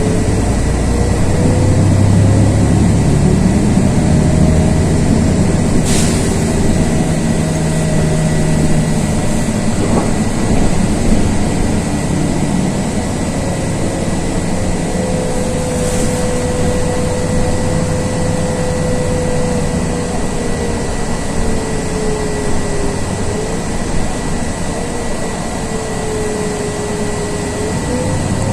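Inside a LiAZ 6213.22 articulated city bus as it drives along: a steady diesel engine rumble and road noise, with a thin whine that drifts slowly up and down in pitch. Two short sharp clicks come about ten seconds apart.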